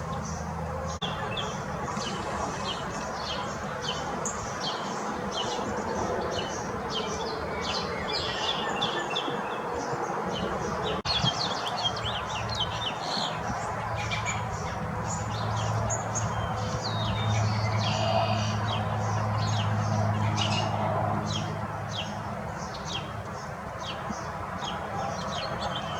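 Small songbirds chirping and twittering continuously, many short high calls overlapping. A low steady hum joins in for several seconds past the middle.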